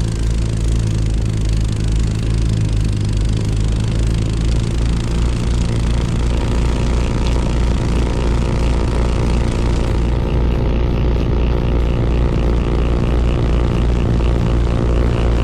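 Honda snowblower's small engine running steadily, a continuous low drone.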